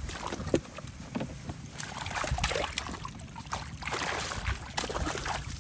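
Water splashing and sloshing in short, irregular strokes over a low rumble of wind on the microphone, as when hands work through shallow water catching fish.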